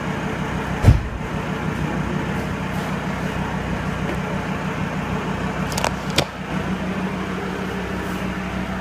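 Alfa Romeo Brera 2.4 JTDM five-cylinder diesel idling steadily, with one loud exhaust bang about a second in from its anti-lag tune. Two quick sharp cracks follow close together about six seconds in.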